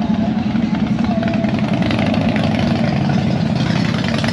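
A vehicle engine idling steadily with a rapid low pulse.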